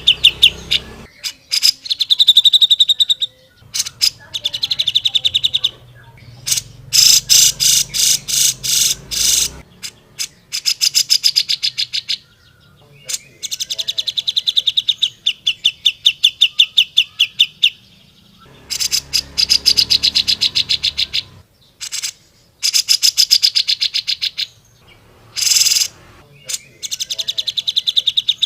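Cucak jenggot (grey-cheeked bulbul) singing energetically in repeated bouts of rapid, evenly spaced chattering notes. Each bout lasts one to a few seconds, with short pauses between them.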